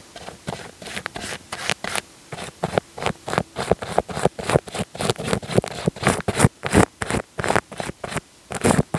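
Wet, sticky clicking and smacking right on an ASMR microphone: a fast uneven run of sharp strokes, about four or five a second, louder in the second half.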